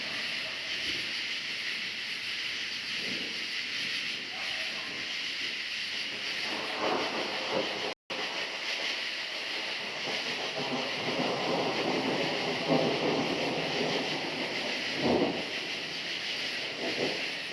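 Steady night chorus of crickets, with rolling rumbles of distant thunder swelling and fading a few times. The sound cuts out for an instant about eight seconds in.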